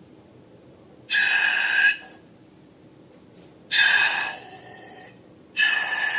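Air rushing and squealing out of a balloon's neck in three short bursts, each under a second, with a steady pitched squeal inside the hiss.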